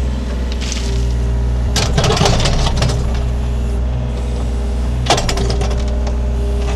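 Takeuchi TB230 mini excavator's diesel engine running steadily while its bucket scrapes and grinds against rocks in the hole, loudest about two seconds in, with a sharp knock about five seconds in.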